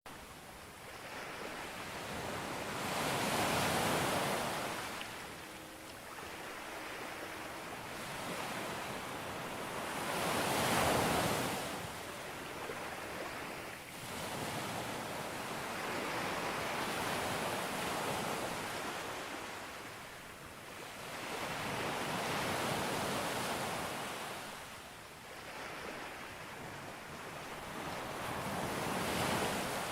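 Ocean waves breaking on a sandy beach, surging and falling back five times, about every six seconds, over a steady hiss of surf.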